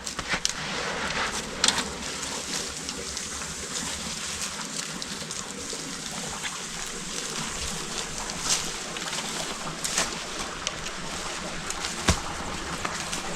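Small forest creek running steadily, with a few sharp clicks or snaps scattered through it.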